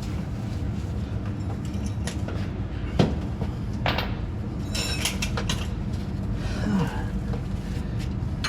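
A steady low mechanical rumble, with a few sharp metallic clicks and knocks about three and four seconds in and a short rattle of clicks around five seconds.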